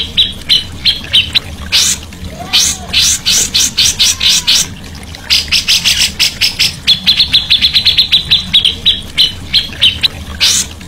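Songbirds calling: bursts of harsh, chattering notes mixed with short repeated chirps, including a fast run of chirps a little past the middle, over a steady low hum.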